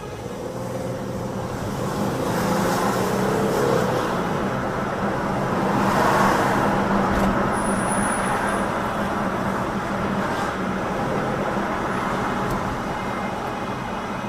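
Car road noise, tyres and engine running, swelling to a peak about six seconds in and then easing off.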